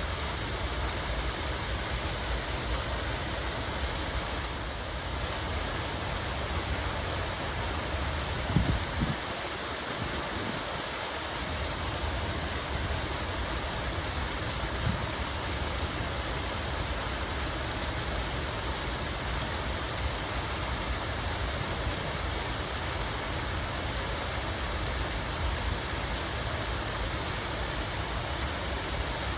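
Steady rushing of running water, an even hiss with no break. A brief low thump comes through about a third of the way in.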